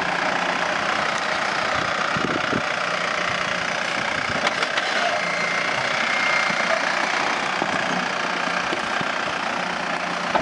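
Jeep Wrangler Rubicon's engine running steadily at low revs as the vehicle crawls down a rock ledge, with a few short knocks along the way.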